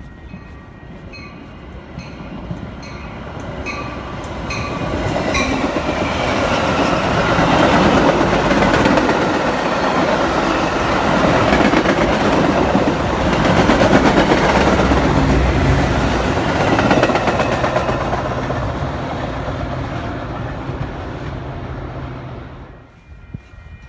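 A train passing close by, wheels clacking over the rail joints, building to a loud peak midway and fading away near the end.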